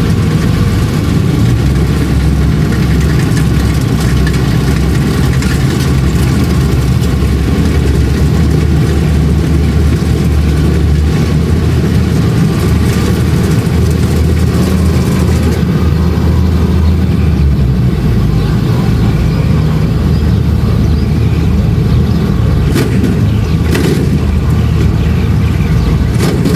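Kubota DC-70 Plus combine harvester's diesel engine and threshing machinery running steadily while harvesting rice, a loud low drone that shifts slightly about two-thirds of the way through, with a couple of brief knocks near the end.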